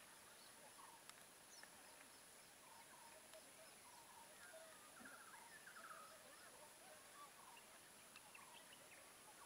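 Near silence outdoors: faint, scattered bird chirps in the background over a steady thin high-pitched hiss.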